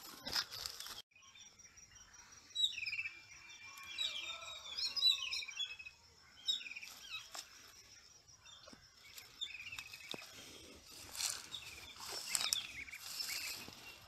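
Small birds chirping and twittering in quick gliding notes. The calls are busiest a few seconds in and again near the end, with a few faint clicks between.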